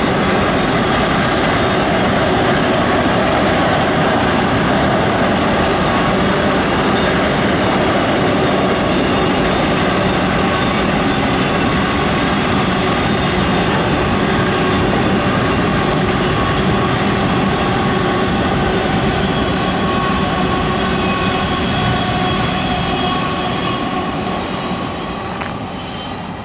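Freight train of autorack cars rolling past: steady noise of steel wheels on rail, with thin high wheel-squeal tones running through it. It fades away over the last few seconds.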